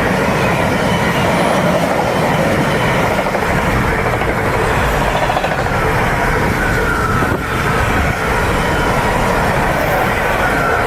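Electric train running on the main line, with a steady loud rumble of wheels on rail and a faint high whine that comes and goes.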